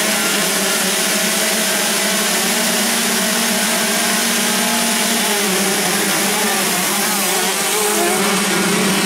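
Several 125 cc two-stroke motocross bikes running hard together, their engine notes overlapping and shifting in pitch as they rev and change gear.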